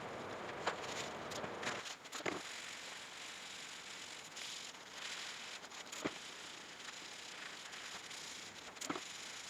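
Rustling and wiping against the computer's plastic case during cleaning, with a few sharp clicks and knocks of handling.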